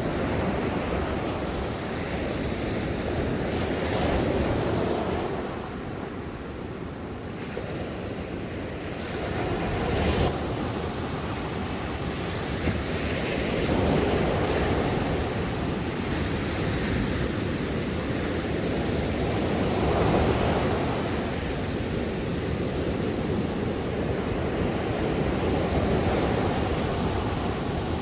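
Ocean waves breaking and washing on a shore, swelling and falling back every few seconds, with a brief lull early on.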